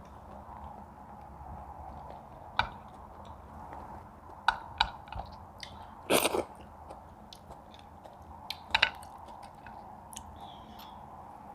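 People eating close to the microphone: chewing, with a few sharp clicks and crunches over a steady background hum. The loudest is a short burst about six seconds in.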